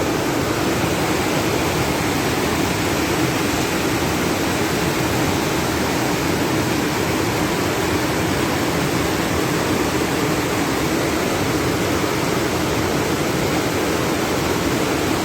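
Floodwater rushing steadily, a constant even noise with no breaks.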